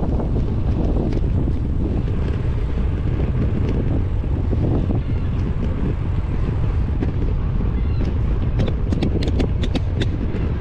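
Wind buffeting a helmet- or bike-mounted action camera's microphone while cycling, a steady low rumble. A quick run of sharp clicks comes near the end.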